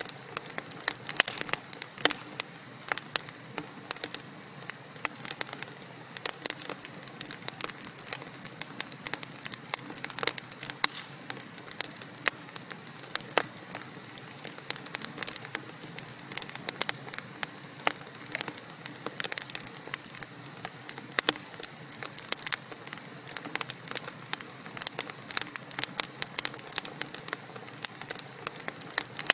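Wood fire burning in a fireplace: logs crackling and popping with frequent sharp snaps over a steady low hiss of the flames.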